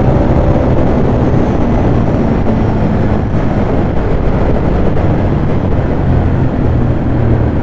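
Ducati Monster 821's L-twin engine running steadily at high speed, with wind rushing over the microphone.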